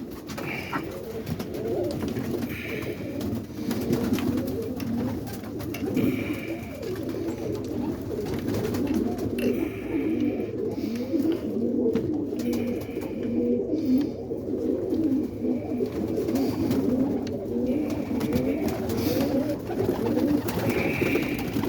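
A loft full of roller pigeons cooing continuously, many birds overlapping in a steady chorus.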